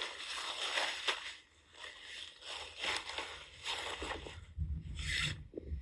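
Rustling and crinkling of nylon camping gear being handled and unpacked, in irregular strokes. A low rumble comes in about four seconds in.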